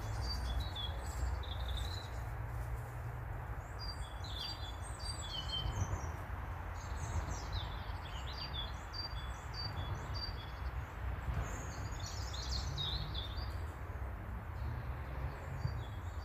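Garden birds chirping and singing, many short high notes and trills in quick succession, over a steady low rumble.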